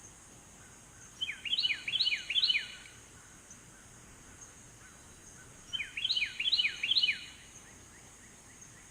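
A songbird singing two phrases about four seconds apart. Each phrase is a quick run of repeated down-slurred whistled notes, over a faint steady high hiss of outdoor ambience.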